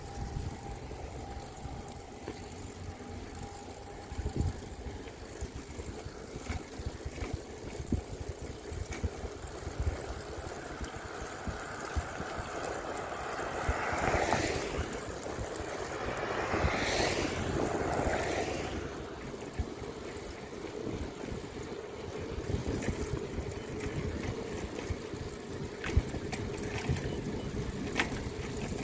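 Steady low rumble of riding noise, with a motor vehicle passing in the middle: it grows louder, peaks with a sliding pitch and fades away over several seconds.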